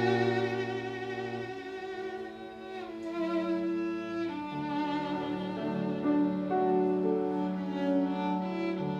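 Live classical chamber music led by bowed strings, violin and cello, playing long held notes with vibrato; a low cello note stops about a second and a half in and higher lines carry on.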